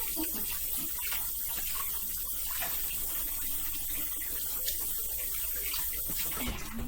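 Kitchen faucet running steadily as hands are washed under it, with small splashes and clinks.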